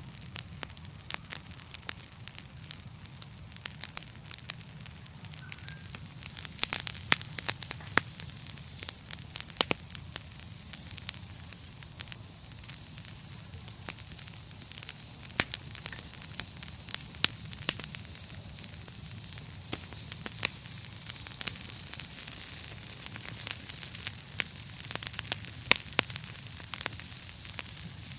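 Wood fire in a fireplace crackling: irregular sharp pops and snaps of varying loudness over a steady hiss of burning.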